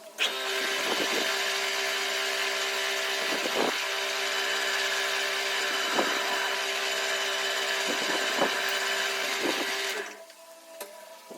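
A power tool starts abruptly and runs steadily for about ten seconds, a loud hiss over a steady hum, then stops near the end.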